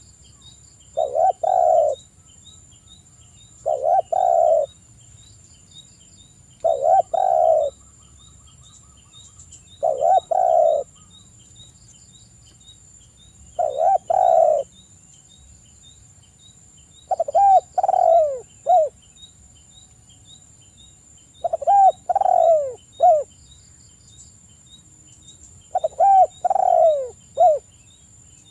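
Spotted dove (tekukur) cooing: about eight separate phrases, one every three to four seconds; the later phrases break into three falling notes. A steady high insect drone and fast ticking run beneath.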